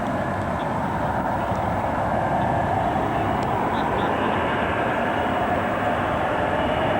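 Handley Page Victor's jet engines: a steady roar with a thin whine that comes in a few seconds in, slowly growing louder.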